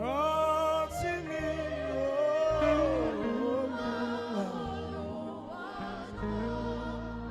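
Saxophone playing a slow gospel worship melody over band accompaniment with a steady bass. It scoops up into a held note at the start, then bends and glides between notes.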